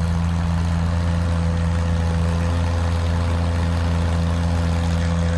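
Oliver six-cylinder tractor engine running steadily at constant pitch while pulling a transfer sled.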